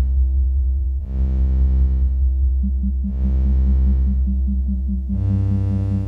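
Abstract electronic synthesizer music: a deep steady bass drone under chords that swell and fade about every two seconds. A rapidly pulsing tone joins about two and a half seconds in, and the bass shifts to a new note near the end.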